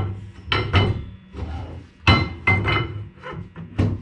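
A series of sharp metal knocks and clanks, about six, several with a ringing tail, from steel rear-axle parts (axle shaft, C-clips, differential) being knocked and worked into place.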